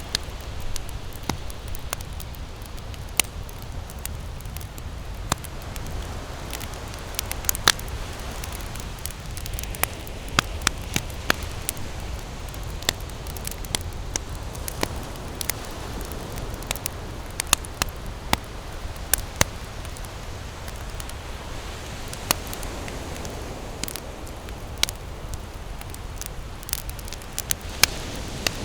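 Wood campfire burning and crackling, with sharp irregular pops several times a second over a steady low rumble.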